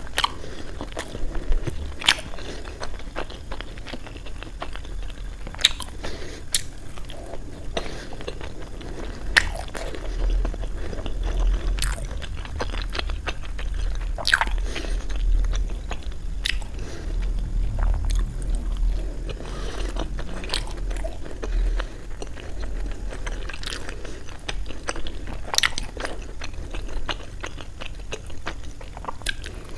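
A person chewing and biting steamed paneer momos dipped in chutney: soft, wet mouth sounds with sharp mouth clicks every second or two.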